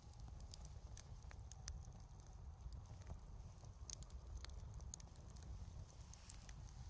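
Wood bonfire crackling, with scattered sharp pops and snaps at irregular intervals over a low steady rumble.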